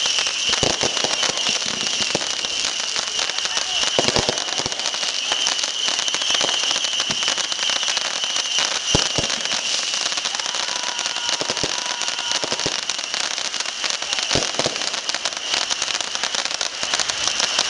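Fireworks crackling and popping in a continuous rapid barrage, with a few louder bangs scattered through it.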